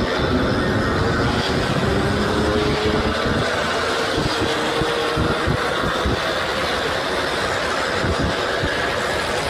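Several Yamaha RX-series single-cylinder two-stroke motorcycles running together on the move, their engine notes rising and falling as the riders work the throttles.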